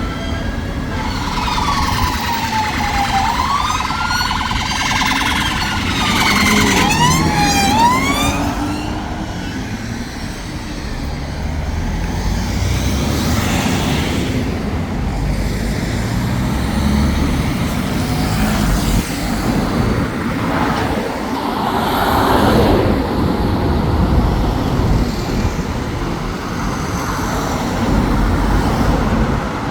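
Police sirens wailing in rising and falling sweeps, then speeding up into a fast yelp before fading after about eight seconds. Steady road traffic follows, with engines and tyres of passing vehicles swelling and fading.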